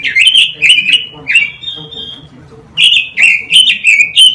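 A caged quế lâm songbird singing loud, fast phrases of gliding, whistled notes. About halfway through there is a brief lull with a thin held note, then the rapid song starts again.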